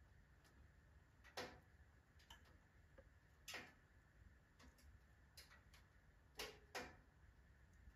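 Firewood crackling in a wood-burning stove: sparse, irregular sharp pops, a few louder ones among smaller ticks, over a faint low background.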